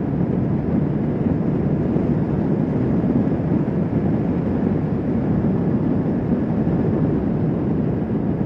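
Kawasaki Vulcan S 650 parallel-twin motorcycle cruising at a steady speed, its engine running evenly under a constant rush of wind and road noise.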